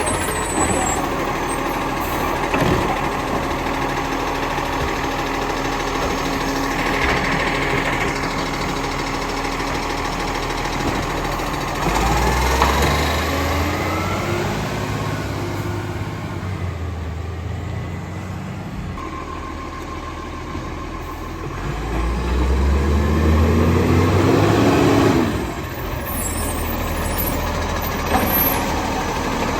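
Garbage truck's diesel engine idling, with the revs rising twice: briefly about twelve seconds in, and again for a few seconds from about 22 s before dropping back to idle.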